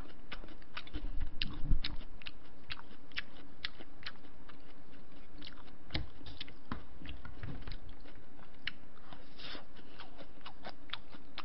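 Close-miked eating: chewing with many short wet mouth clicks. There is a cluster of louder low bumps about a second in and a few more later.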